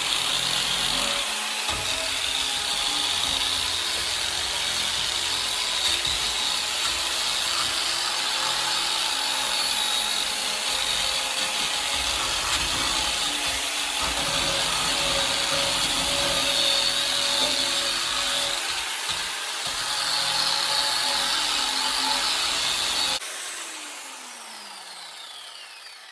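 Electric power tool running steadily with a loud, raspy noise as it works on a part, then switched off about 23 seconds in and winding down with a falling whine.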